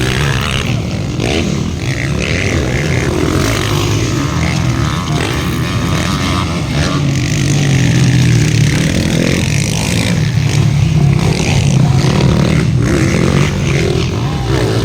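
Motocross bikes' engines running at race speed, a steady loud drone with pitch that rises and falls as the riders work the throttle.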